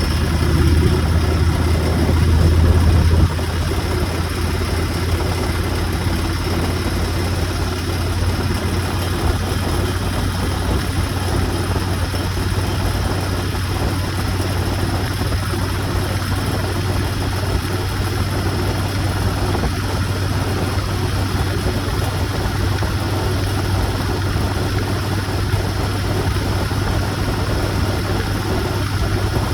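Motorcycle engine running steadily while riding, with a continuous hiss of wind and road noise; the engine is louder for about the first three seconds, then drops suddenly and holds steady.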